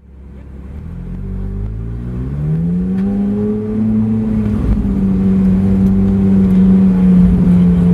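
Straight-piped Ferrari 458 Italia's V8 exhaust heard from inside the car: the engine note grows louder over the first few seconds, rises in pitch for about two seconds, then holds steady at constant revs.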